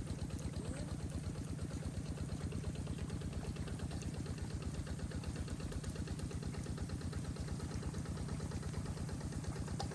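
A small engine running steadily with an even, rapid pulsing beat.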